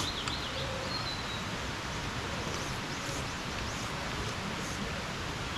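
Steady, even rush of monsoon rain and a rain-swollen stream, with a few faint bird chirps near the start and again in the middle.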